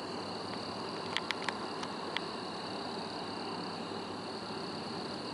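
Steady night chorus of insects such as crickets, a constant high trilling hiss, with a few short clicks between one and two seconds in.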